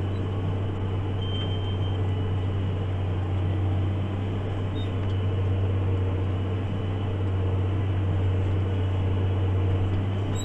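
JCB Fastrac 8250 tractor engine running steadily under ploughing load, a constant low drone heard from inside the cab.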